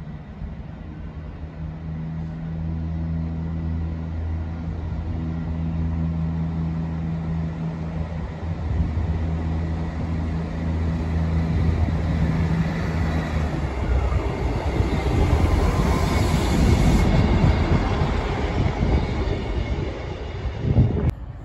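Diesel multiple-unit train approaching along the platform line, first a steady low engine drone, then growing louder into the rumble of wheels on the rails as it passes close by. The sound cuts off abruptly just before the end.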